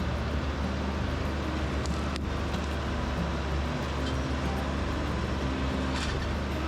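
TYM T574 tractor's diesel engine running steadily under work, with a couple of light clicks from the machine.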